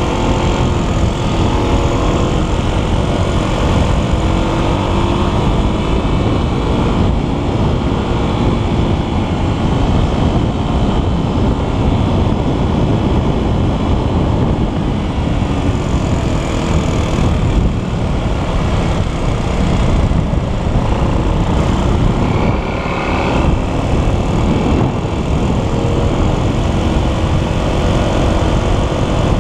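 Motocross bike engine running under way, its pitch rising and falling as the rider works the throttle, over a heavy low rumble.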